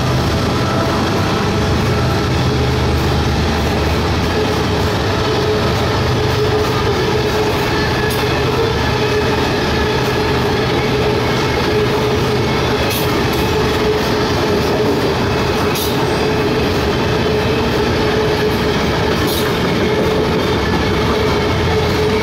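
Freight train of covered hopper cars rolling past at close range: a steady rumble of steel wheels on rail with a held tone over it and a few sharp clicks as wheels cross rail joints.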